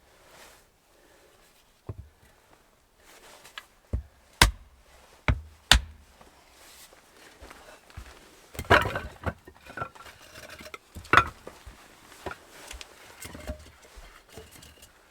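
A series of sharp knocks at irregular intervals, a few seconds apart, with a longer rattling clatter about nine seconds in and another hit soon after.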